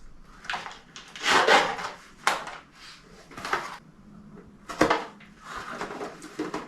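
Handling noises while parts of an artificial Christmas tree are put together: a string of rustles and knocks, with a sharp click about five seconds in.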